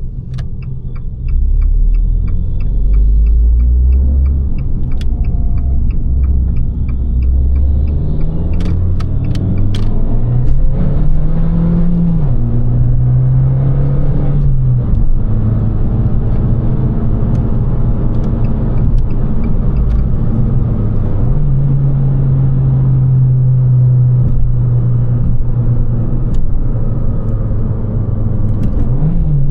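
Abarth 595 Competizione's turbocharged 1.4 T-Jet four-cylinder running through its active Record Monza exhaust: low revs at first, then revs rising in a few pulls through the gears, then cruising at steady revs. A regular ticking of about two clicks a second runs through the first several seconds.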